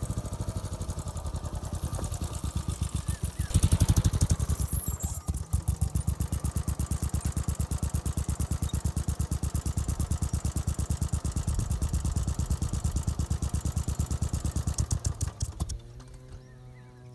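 Royal Enfield scrambler's engine running with rapid, even exhaust pulses, louder for a moment about four seconds in as it is revved or pulls harder. It drops away shortly before the end.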